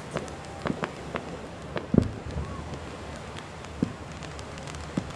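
Fireworks going off: a scatter of irregular pops and crackles, with one louder, deeper bang about two seconds in.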